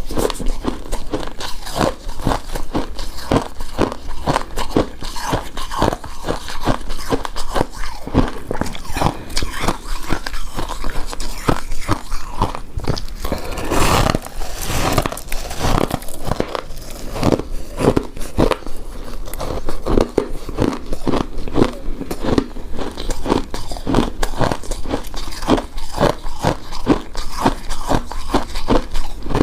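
Close-miked chewing of a soft, chewy rice cake coated in shredded coconut: a steady run of mouth sounds a few times a second, with a louder, noisier stretch about halfway through.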